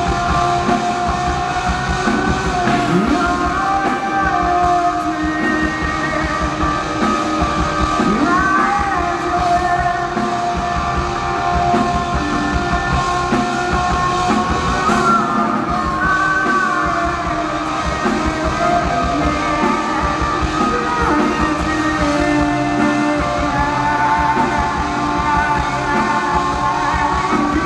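Live rock band playing: two electric guitars with sustained, bending notes over bass guitar and a drum kit, heard with the boom of a concert hall.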